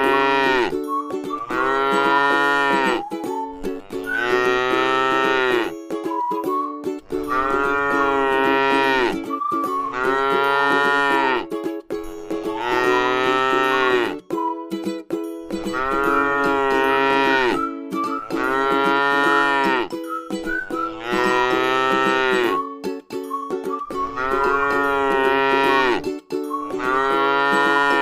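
Cow mooing over and over, one long call about every two seconds, over a steady low drone.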